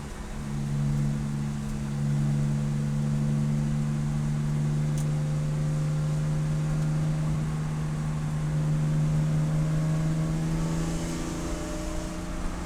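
Race car engine running hard at a steady note, its pitch climbing slowly as it gains revs.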